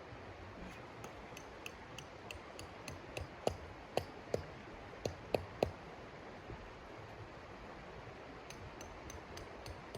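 Wood fire crackling in a hot-tent wood stove: irregular sharp pops and snaps over a steady low hiss, with a cluster of louder pops in the middle.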